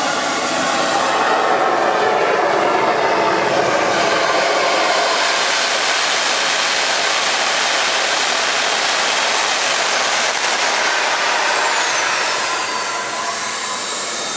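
RC jet's model turbine engine running at high power: a loud, steady rushing whine, with a high whistle that glides down in pitch near the end.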